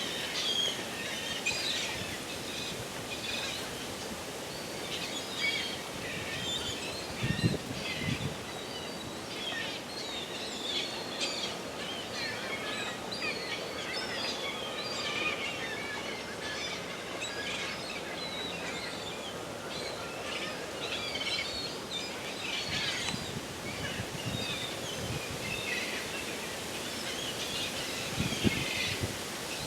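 A large flock of gulls calling in a feeding frenzy over schooling fish: many short, overlapping calls throughout over a steady background hiss, with a few brief low bumps.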